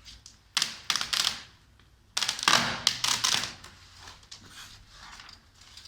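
Vinyl decal film being worked by hand: a few short rasping, crackling bursts, the longest about a second long, then faint ticking.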